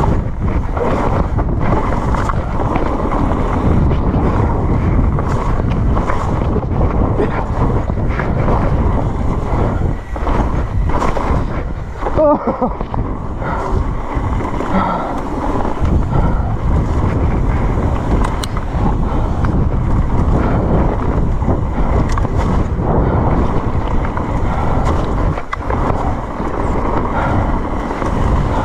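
Wind rushing over the microphone of a mountain bike riding down a trail at speed, with scattered knocks as the bike goes over rough ground.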